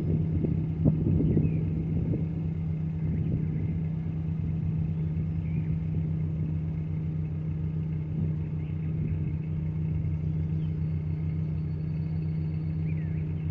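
2002 Ford Explorer's 4.0-litre V6 idling after a cold start. It runs a little unevenly for the first second or two, then settles into a steady idle.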